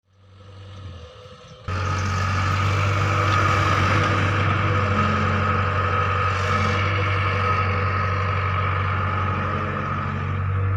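A vehicle engine running steadily at an even speed. It fades in quietly, then becomes suddenly louder a little under two seconds in.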